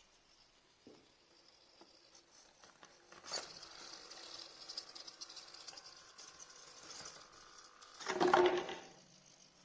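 Small servo motors of a robot arm whining steadily as they move, with a click a few seconds in and a louder clattering burst near the end.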